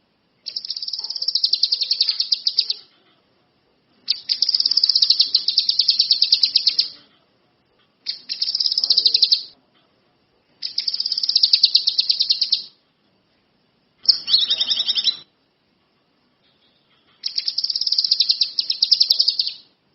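A kinoi songbird in full, vigorous song: six bouts of very fast, even, high trilling, each one to three seconds long, separated by short pauses.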